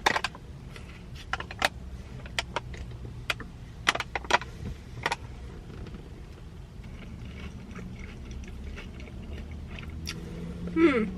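Close-up eating sounds of a fried Korean mozzarella corn dog: sharp crisp crackles of the fried batter being bitten and chewed, scattered through the first five seconds and again near the end, followed by a short hum of enjoyment.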